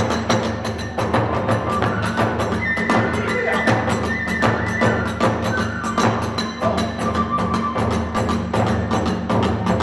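Kagura hayashi ensemble playing: drums and small hand cymbals struck at a fast, steady beat, with a bamboo transverse flute holding high notes over it.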